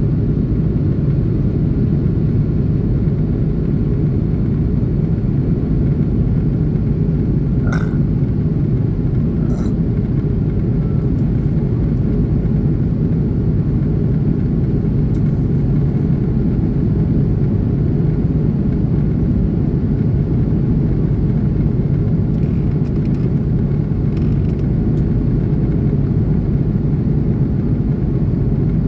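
Steady low roar inside the cabin of an Airbus A330-323 airliner in flight, made by its Pratt & Whitney PW4000 engines and the airflow. A couple of faint ticks come about a third of the way in.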